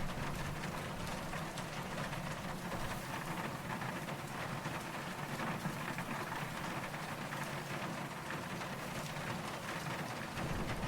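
Steady rain falling, a dense patter of drops at an even level, which grows louder and fuller just before the end.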